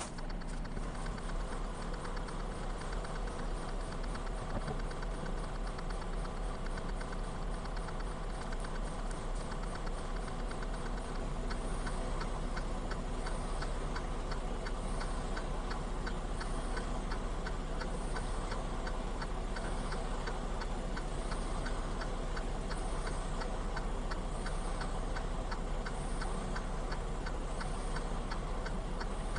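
Steady, even ticking over a low, steady rumble, with a sharper click about once a second joining partway through.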